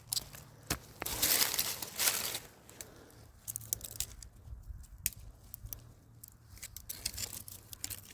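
Rustling and crinkling of something being handled, with scattered small clicks and snaps. The rustling is loudest in two swells between about one and two and a half seconds in.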